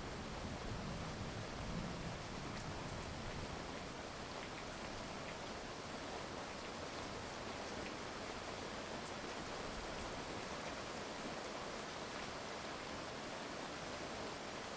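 Steady rain falling, an even hiss with a few separate drops ticking now and then. A low rumble dies away in the first couple of seconds.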